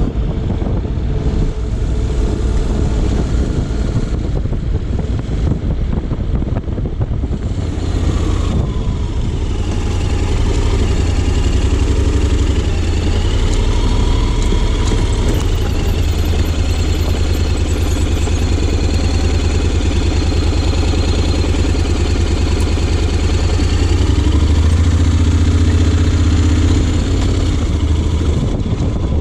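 Honda X-ADV 750's parallel-twin engine running under way, its pitch rising and falling with the throttle, with a loud steady low rumble throughout.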